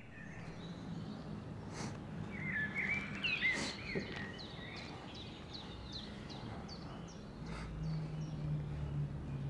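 Small birds chirping in a string of short, quick calls over a low steady background hum. The hum grows louder near the end.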